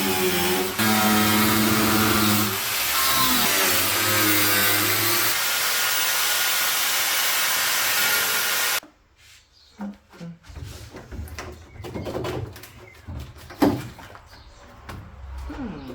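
Power tool cutting through rusty car body sheet metal at a rear wheel arch, its motor pitch shifting as it loads up. It stops suddenly about nine seconds in, leaving scattered knocks and clanks.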